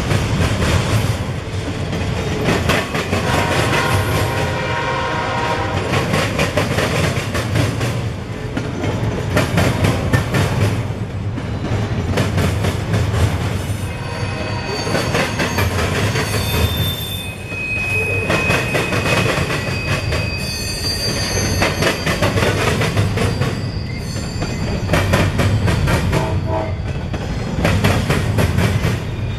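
Freight train cars rolling past, steel wheels clattering steadily over the rail joints. From about halfway, thin high-pitched wheel squeal comes in and out.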